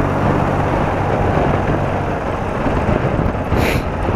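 BMW R80RT's air-cooled flat-twin engine running steadily at road speed, under wind and road rush over the microphone, with a brief hiss near the end.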